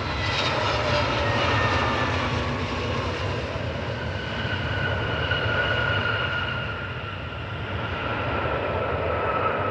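Airbus A321neo twin-engine jet airliner passing close on arrival: a low rumble with an engine whine that slides down in pitch as it goes by.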